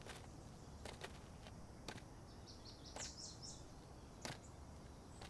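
Quiet forest ambience: a brief run of high bird chirps about halfway through, with a few light, irregular clicks.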